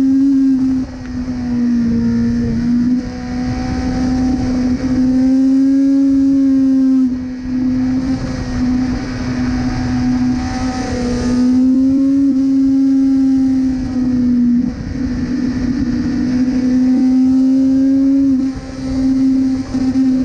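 Suzuki GSX-R1000R's inline-four engine running at high revs under way. It holds a steady high pitch, with brief dips every few seconds.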